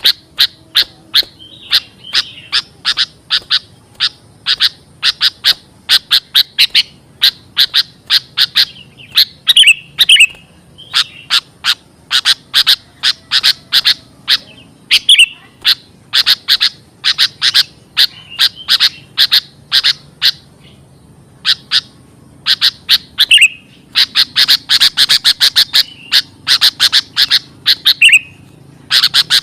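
Sooty-headed bulbul (kutilang) calling excitedly: rapid runs of sharp chipping notes, several a second, with brief pauses and an occasional down-slurred whistle. This is the noisy, agitated calling used as a lure to draw other bulbuls in.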